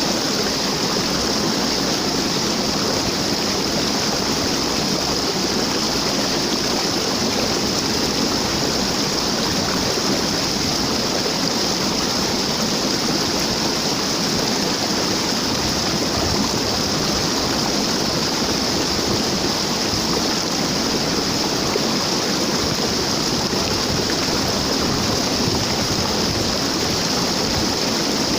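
Waterfall: water rushing and splashing in a steady, unbroken roar.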